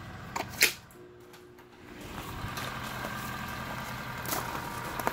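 A few footsteps and a sharp knock in the first second. Then, after a short quieter gap, a 1988 Toyota Celica's engine idling steadily with an even hum.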